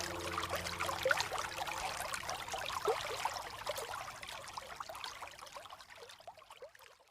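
Running water trickling and splashing, many small bubbling blips, fading out gradually to silence near the end. A held music tone dies away about a second in.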